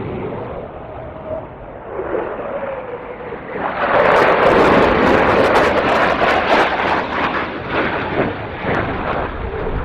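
Low-flying military jet passing, its roar swelling suddenly about four seconds in and then fading away slowly.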